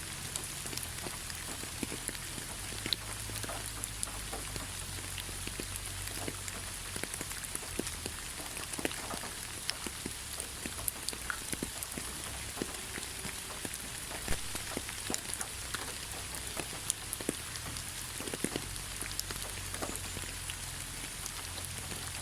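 Steady rain falling in a forest, a continuous hiss with many separate drop ticks scattered through it.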